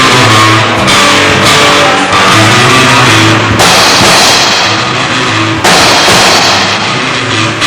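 Rock band playing at full volume during a sound check: a drum kit with a constant wash of cymbals over bass and electric guitar.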